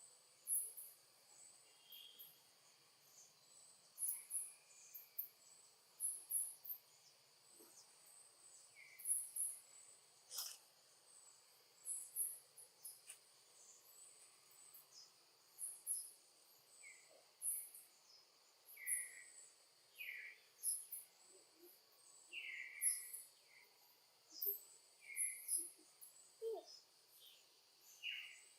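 Outdoor ambience: a steady, high-pitched insect drone with frequent short, high chirps and scattered brief calls.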